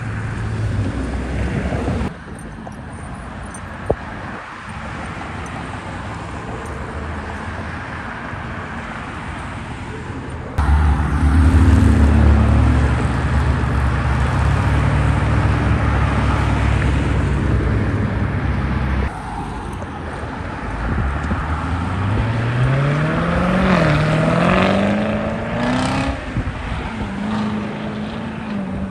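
Car engines running at a car meet, heard in several short cuts. The loudest is a deep, steady idle. Near the end an engine revs up in rising pitch, dips briefly and rises again.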